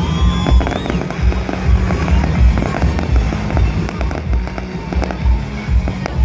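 Fireworks crackling and popping in quick, irregular succession, over loud music with a heavy bass.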